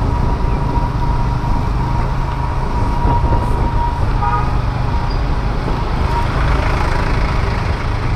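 Honda Activa scooter riding along, its engine and wind noise steady and low-pitched, with a short horn toot about four seconds in.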